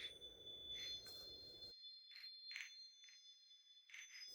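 Soft chimes ringing faintly: a few high, sustained bell-like tones with a handful of light struck notes.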